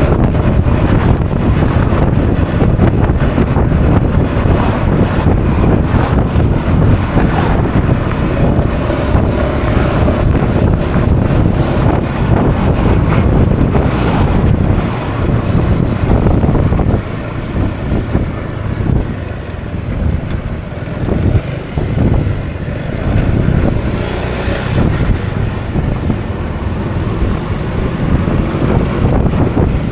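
Wind buffeting on an action camera's microphone while riding a Honda Forza 350 scooter, with the scooter's engine and road noise underneath. It drops somewhat and turns uneven a little over halfway through.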